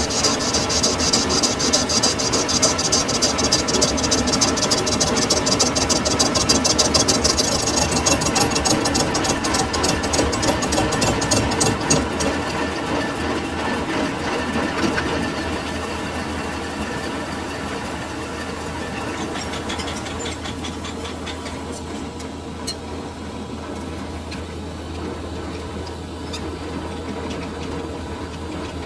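Metal lathe machining a sugarcane juicer roller bush, the cutting tool making a loud, rapid, high-pitched cutting noise against the turning metal. About twelve seconds in the cutting stops, leaving the lathe running on with a steady low hum.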